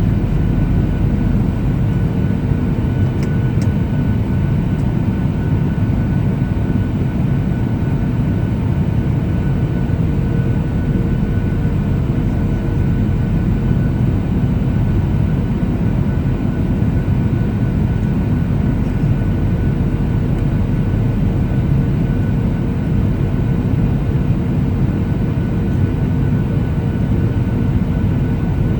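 Boeing 737-800 cabin noise in flight: the steady low rush of the jet engines and airflow, with faint steady hums above it.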